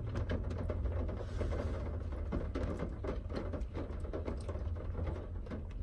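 Rustling and light clicking of fast-food wrappers and bags being handled while eating, over a steady low hum.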